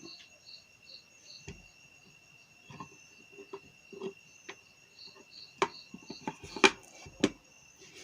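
Sharp plastic clicks and knocks from handling an electric kettle's cover as it is fitted back on, the loudest about two-thirds of the way in. Under them runs a steady high whine with a soft chirping pulse about three times a second.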